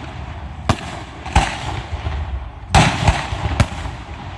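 Aerial fireworks shells bursting in a show: about five sharp bangs at uneven intervals, two of them close together just under three seconds in.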